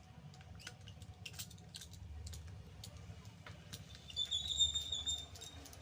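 Light clicks and taps of small tools working on an opened mobile phone. About four seconds in, a steady high-pitched tone sounds for about a second and a half, louder than the clicks, over a low hum.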